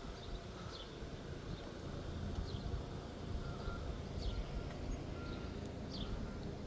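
Wind rumbling on the microphone, with scattered short bird chirps every second or so.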